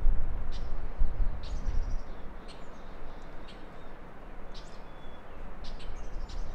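Small birds chirping: many short, high calls scattered throughout. A low rumble underneath for the first two seconds, then dropping away.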